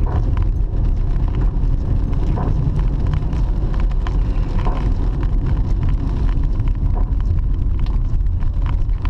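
Car driving on the road: a steady low rumble of road and engine noise, with a few faint ticks.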